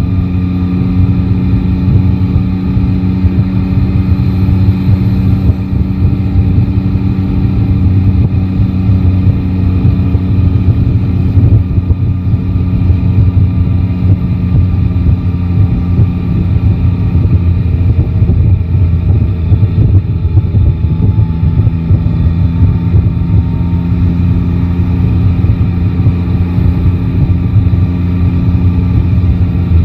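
Yamaha Tracer 9 GT motorcycle engine running at a fairly steady speed under way: an even, low engine drone over a dense rumble, with the pitch rising slightly near the end.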